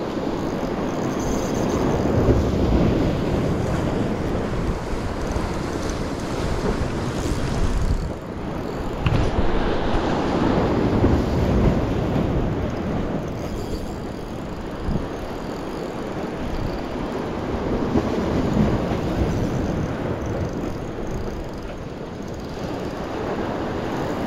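Sea waves washing against shore rocks, rising and falling in slow surges, with wind buffeting the microphone.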